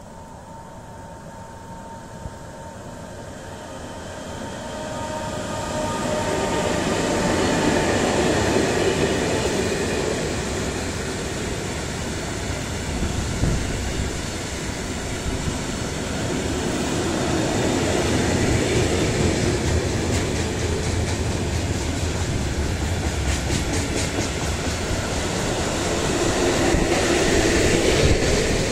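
Bombardier Traxx DC3 electric locomotive approaching with a steady whine, growing louder over the first several seconds, then a long freight train of loaded tank wagons rolling past close by: a continuous rumble of wheels on rail, with repeated wheel clicks over the rail joints in the second half.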